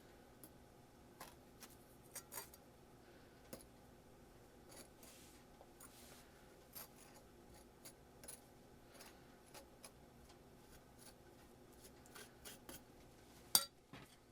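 Faint small handling sounds: scattered light clicks and snips, with one sharper click near the end.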